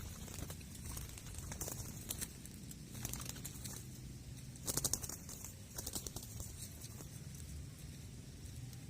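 Wind rumbling on the microphone on an open hilltop, broken by a few short bursts of rapid fluttering clicks, the loudest about five seconds in.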